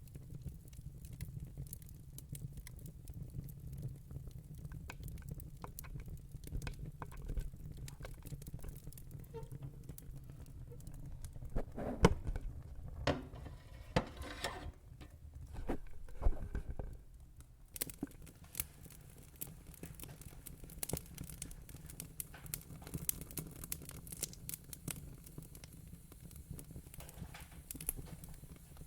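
Wood fire in a fire pit crackling, with scattered sharp pops over a low steady rumble of the flames. A flurry of louder pops comes about halfway through.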